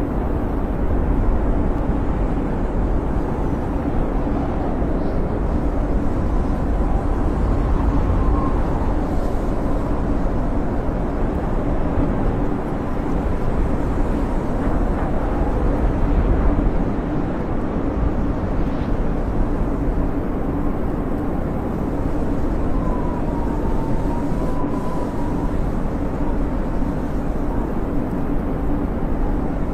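Snowstorm wind howling steadily with a deep rumble, and a faint whistle that wavers up and down a couple of times.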